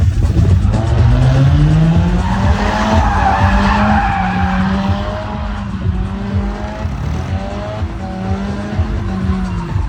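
A motor vehicle running, its pitched drone rising over the first few seconds and then holding steady. A screeching noise swells and fades a couple of seconds in.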